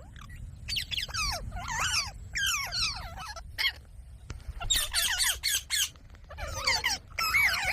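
Green parrot squawking and chattering in several short bursts of quick rising and falling calls, over a low steady rumble.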